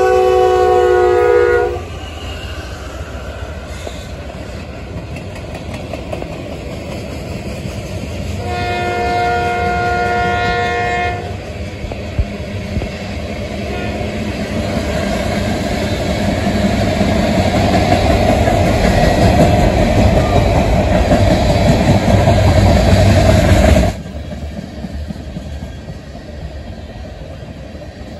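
A Norfolk Southern GE AC44C6M locomotive's multi-note horn sounds as the lead unit passes, ending about a second and a half in, then blows again for about two and a half seconds near the ten-second mark. After that the tank cars and boxcars rumble and clack over the rails, growing louder until the noise drops abruptly about four seconds before the end.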